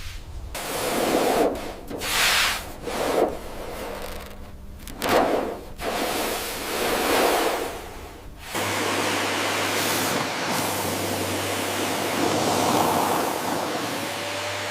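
Rhythmic scrubbing strokes on a car's dirty bodywork, about one a second. About two-thirds of the way through it cuts to a steady hiss of spraying water over a low hum.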